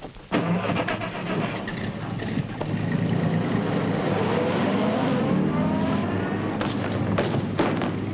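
A car engine starts suddenly and revs up, rising in pitch as the car pulls away. A few sharp cracks come near the end.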